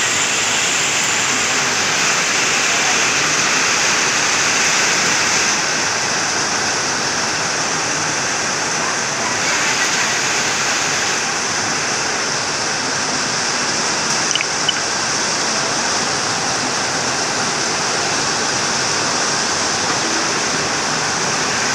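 Steady rain falling, an even hiss throughout, with a brief small click about two-thirds of the way through.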